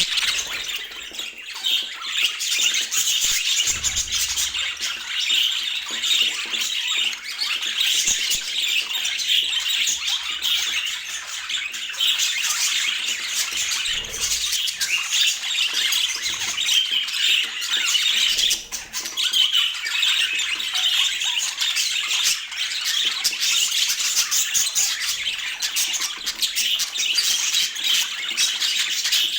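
Budgerigars chattering and warbling continuously, a dense stream of short chirps and squawks.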